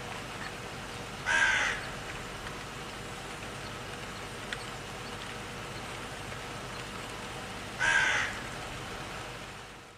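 An animal calling twice, two short pitched calls of about half a second each, roughly six seconds apart, over a steady background hiss.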